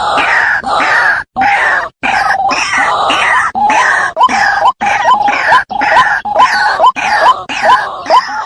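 White-breasted waterhen (teruwok) calling: a fast string of harsh, repeated croaking notes, each rising sharply in pitch, about two a second, with a few abrupt breaks where the recording is cut or looped.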